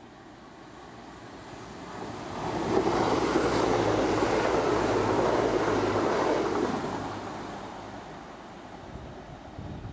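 Chiltern Railways diesel multiple unit running through a station at speed without stopping. The rush of the train builds over about two and a half seconds, stays loud for about four seconds as the carriages pass with a steady low hum underneath, then fades away.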